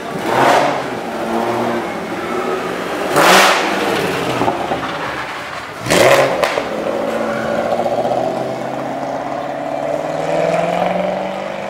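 Drift car engines revving hard in three sharp blips a few seconds apart, over an engine running underneath. In the second half, an engine note climbs slowly and steadily in pitch as it pulls away.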